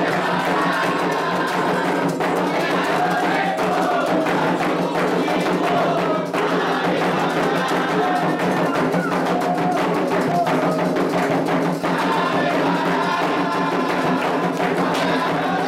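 Candomblé ritual music: atabaque hand drums and a struck metal bell keep a steady, dense rhythm, with voices singing a chant over the drums throughout.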